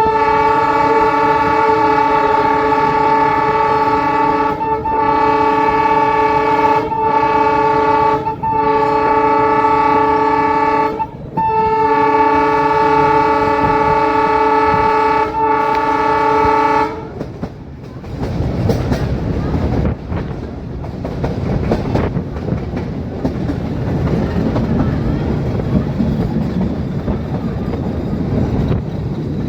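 YDM-4 diesel locomotive's horn sounding in about six long blasts separated by short breaks, stopping about 17 seconds in. The train's low rumble of running on the metre-gauge track follows.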